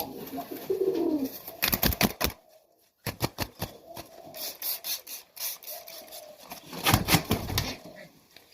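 Pigeons cooing in a loft, with a few short, loud, noisy bursts in between.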